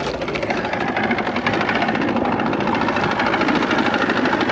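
Boat motor running steadily with a fast, even pulsing.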